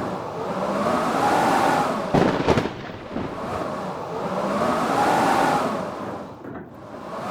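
Blizzard wind howling in gusts, swelling and dying away every few seconds with a rising and falling whistle. A sudden loud thump about two seconds in.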